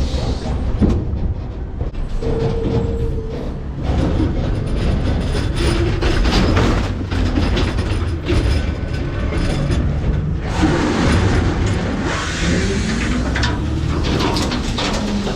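McNeilus ZR rear-loader's hydraulic packer compacting trash in the hopper over the truck's diesel engine running steadily. Many sharp cracks and crunches of trash breaking, with a few short metal squeals and groans, one rising near the end.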